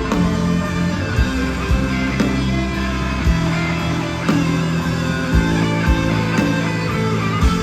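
A live rock band playing a song through concert loudspeakers, with guitars, bass and drums keeping a steady beat.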